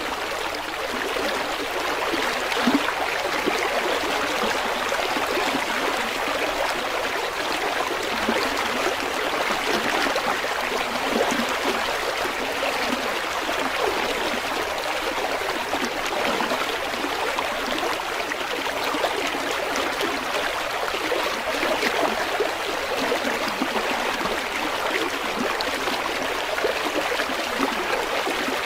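River water flowing and babbling steadily over stones, a continuous rushing with small splashes and gurgles.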